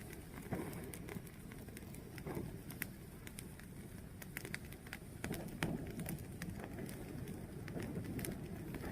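Fire burning and crackling: irregular sharp pops and snaps over a low, steady rushing of flames.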